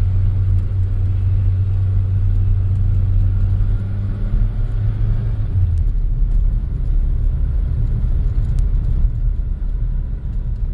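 Airship engines droning: a steady low hum over a deeper rumble. The hum drops away about six seconds in, leaving the rumble.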